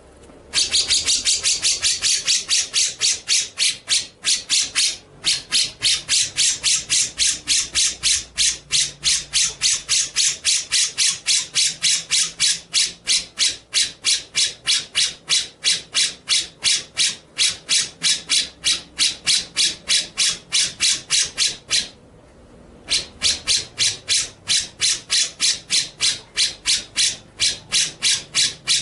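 A bird repeating one short, high call over and over, about three or four notes a second, in a long run that pauses briefly twice.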